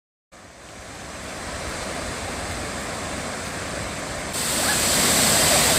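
Steady rushing of a waterfall, fading in from silence and growing louder, then stepping up suddenly about four seconds in.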